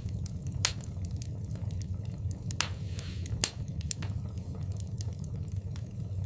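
Wood fire crackling in a fireplace: scattered sharp pops, a couple of them louder (about two-thirds of a second in and around three and a half seconds), over a steady low rumble of the flames.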